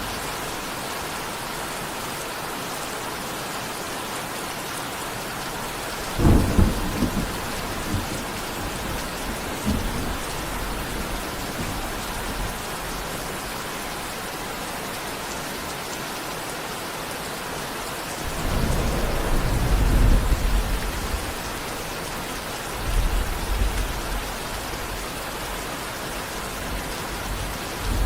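Steady rain falling, with rolls of thunder about six seconds in, a longer rumble from about eighteen to twenty-one seconds, and a shorter one near twenty-three seconds.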